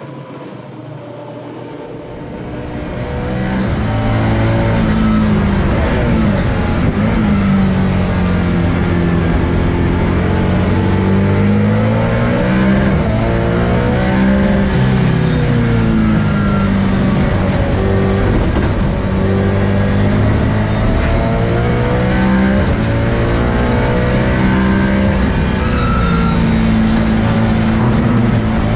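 BMW M3 race car engine at full throttle on track. It climbs in pitch through the revs, drops at each gear change and falls away under braking, again and again. It rises from quieter to loud over the first few seconds.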